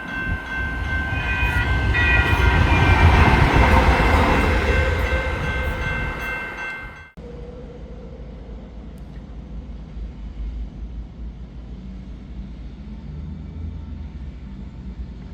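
Light rail train passing close by, its rumble building to a peak about three seconds in and then fading, with steady high tones sounding over it. The sound cuts off abruptly about seven seconds in, giving way to a quieter, steady low rumble.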